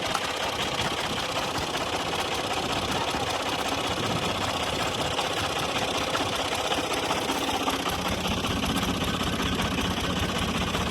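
Old combine harvester running steadily: its diesel engine with a fast, even mechanical clatter. A low steady hum comes in about eight seconds in.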